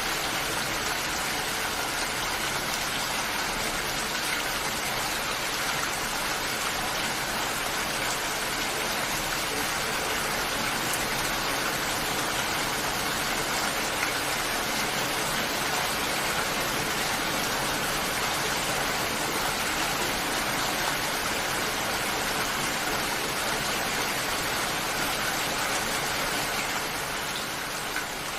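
Steady heavy rain falling, an even hiss of water without let-up, dropping slightly in level near the end.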